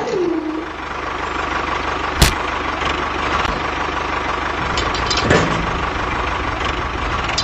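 A small electric motor of a DIY model tractor whines, then drops in pitch and winds down at the start. A steady mechanical running and grinding noise follows, with a sharp click about two seconds in.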